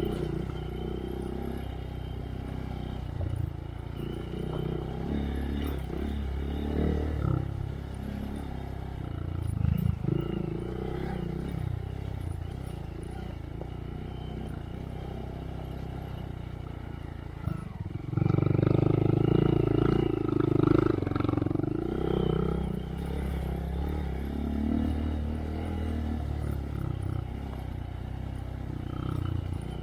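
2023 Honda Monkey's 125 cc single-cylinder engine running through a Yoshimura RS3 exhaust while riding a rough trail, the throttle rising and falling. About 18 seconds in it opens up and gets much louder for a few seconds, then eases off.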